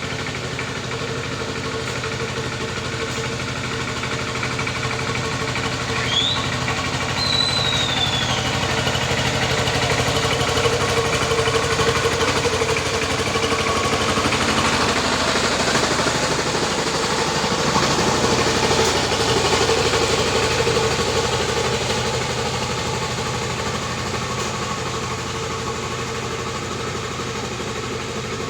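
Tractor engine running steadily while working the field, growing louder through the middle as it comes closer and then easing off. A couple of brief high chirps are heard a few seconds in.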